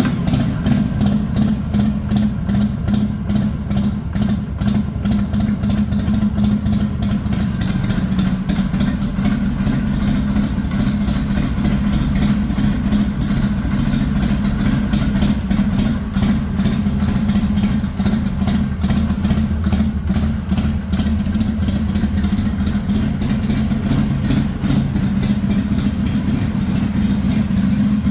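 Harley-Davidson XL883L Sportster's air-cooled 883 cc V-twin idling steadily, freshly started after an oil change.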